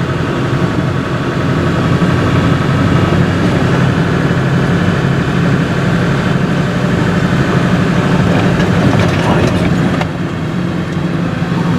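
Vehicle engine running with a steady low drone, dipping briefly near the end.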